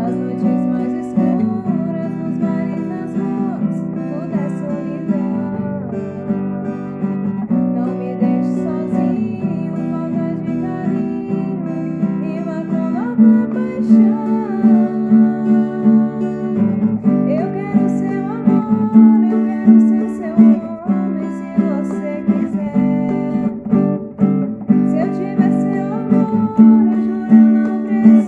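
An acoustic guitar strummed steadily, with a singing voice carrying the melody over it.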